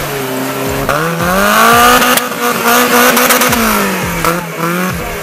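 Suzuki Samurai 4x4's engine revving as it pulls through soft sand: the note climbs about a second in, holds high for a couple of seconds, then drops back.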